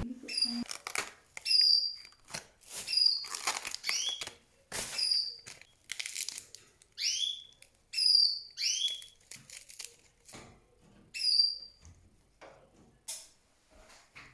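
Pet canaries chirping: a string of short, high calls with quick pitch glides, spaced irregularly, with light rustling between them.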